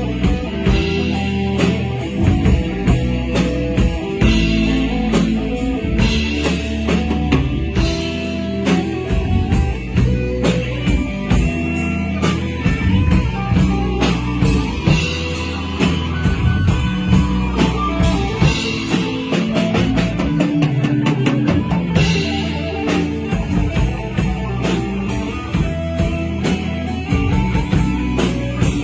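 Rock band playing: drum kit keeping a steady beat under electric guitars and bass guitar.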